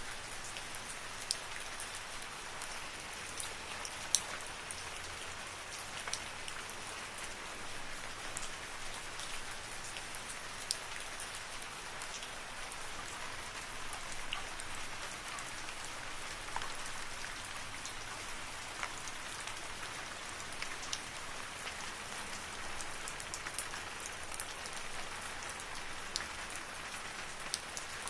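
Steady rain falling in a forest, a soft even hiss with many individual drops pattering and ticking close by.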